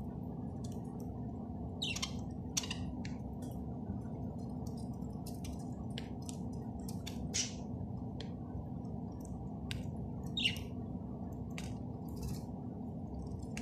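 Small pet bird making short, high chirps and squeaks every second or so, with a few louder calls about two, seven and ten seconds in, over a steady low background hum.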